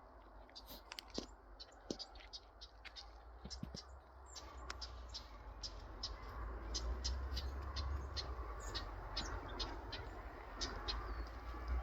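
Small birds chirping, many short high calls scattered throughout, over a low steady rumble that grows louder about four seconds in.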